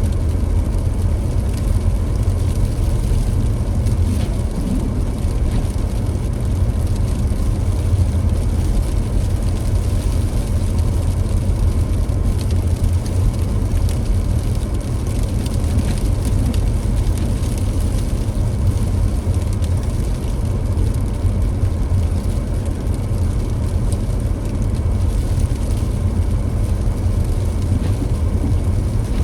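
A car being driven: a steady low rumble of road and engine noise that holds even throughout.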